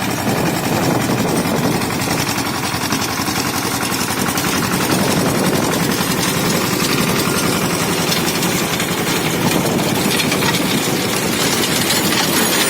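Sonalika Baagban mini tractor's diesel engine running steadily, with a rapid, even knocking beat.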